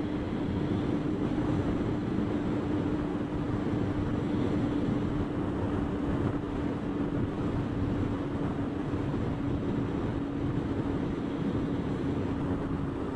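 Motorcycle engine running at a steady cruise with a constant hum that sinks slightly near the end, under steady wind and road noise picked up by the rider's helmet microphone.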